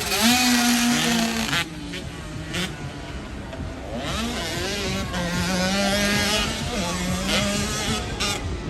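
Motocross dirt bike engines revving on the track, their pitch rising and falling as the riders shift and work the throttle. The sound is louder for the first second and a half, then drops back.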